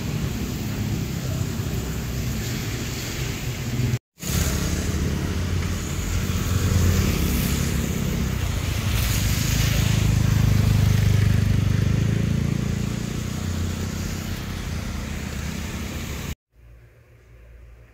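Outdoor ambience in the rain: a steady hiss of falling rain over a low traffic rumble, with a vehicle passing and swelling louder about ten seconds in. The sound briefly drops out about four seconds in, and near the end it cuts to much quieter room tone.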